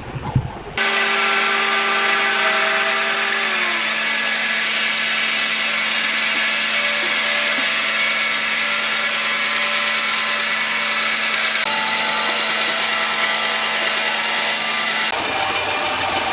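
Electric power tool running steadily on wood, starting abruptly about a second in and cutting off suddenly near the end, with one tone in its whine sliding down in pitch around four seconds in.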